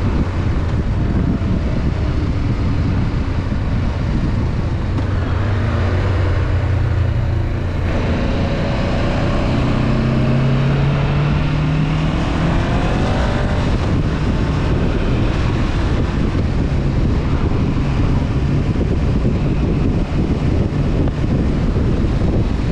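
Honda CB500F parallel-twin engine running under heavy wind rush on the microphone. After a short dip about eight seconds in, the engine note climbs steadily for a few seconds as the bike accelerates, then sinks back under the steady wind noise.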